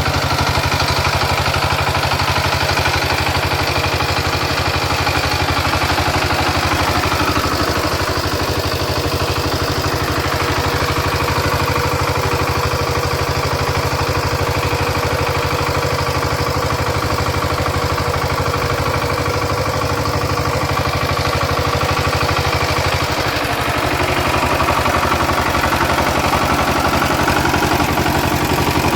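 Power tiller engine running steadily with a rapid, even chugging. The tone of the machine changes about 23 seconds in.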